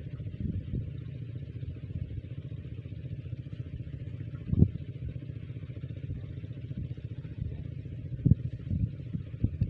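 Small diesel engine driving a water pump, running steadily with a low, even rumble, with a few short louder knocks about halfway through and near the end.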